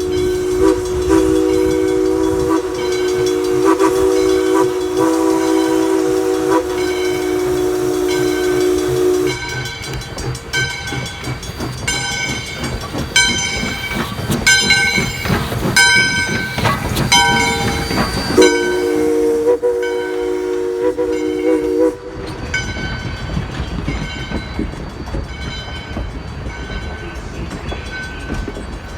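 A train whistle sounds a long held chord for about nine seconds, then a second blast of about three seconds past the middle. Through it a locomotive bell rings steadily, loudest while the whistle is silent, over the train's running rumble.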